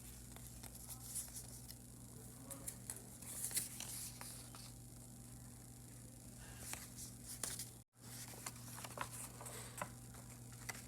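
Faint steady electrical hum with scattered light clicks and rustles, broken by a brief dead-silent gap about eight seconds in.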